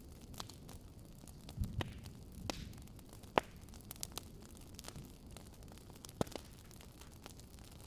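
Wood fire crackling: sharp pops at irregular moments over a low steady rumble, with a dull thump about a second and a half in.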